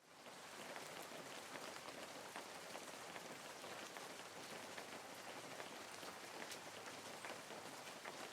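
Steady, faint water noise with a fine patter of many small drops, fading in at the very start and holding an even level with no swell of breaking waves.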